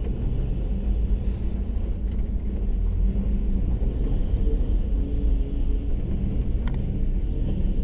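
The 8.1-litre Chevy V8 swapped into a 1980 Chevy C30 rollback, running with a steady low rumble.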